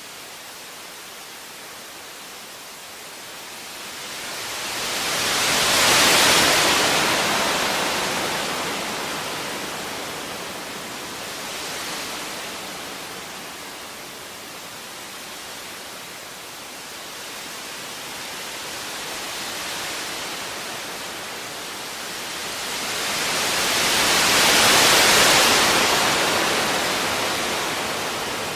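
Sea waves washing ashore: a steady hiss of surf that swells up loudly about six seconds in and again near the end, with smaller swells between.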